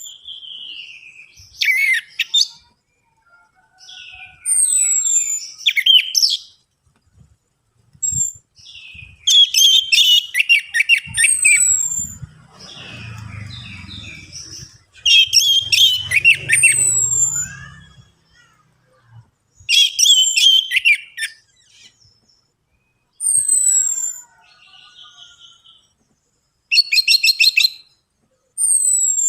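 Orange-headed thrush singing in separate phrases with short gaps: high falling whistles alternating with rapid chattering trills, about a dozen phrases. It is the 'pancingan' lure song played to prompt caged thrushes to sing.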